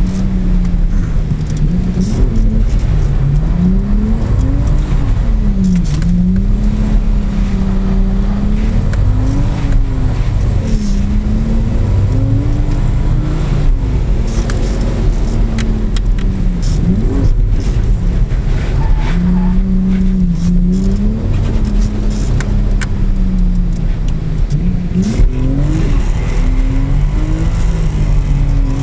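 Car engine heard from inside the cabin, the revs rising and falling again and again as the car is drifted around a wet track, with a steady rush of tyre and road noise underneath.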